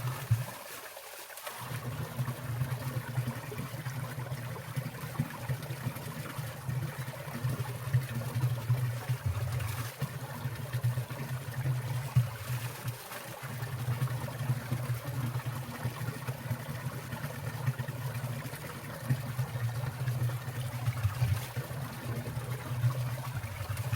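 Water trickling and splashing in a winter mountain stream among icicles, with a steady low rumble under it that cuts out briefly about a second in and again around halfway.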